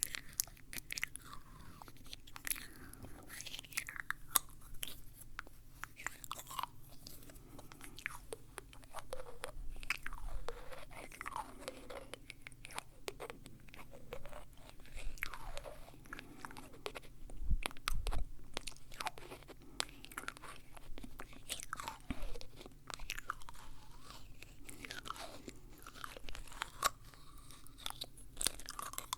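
Close-up wet mouth sounds: irregular lip and tongue clicks, smacks and nibbling bites on a wooden spoon.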